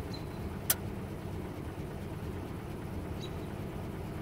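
1935 Ford's flathead V8 idling steadily, with one sharp click less than a second in.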